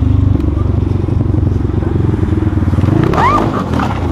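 Motorcycle engine running steadily, its rapid firing pulses dense and low. About three seconds in, a short rising vocal cry cuts across it.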